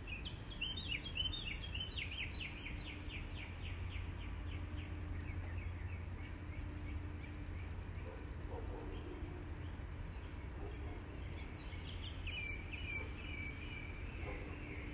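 Outdoor background noise with a low steady rumble. A bird sings a rapid trill of short, falling chirps for the first few seconds and sings again about twelve seconds in.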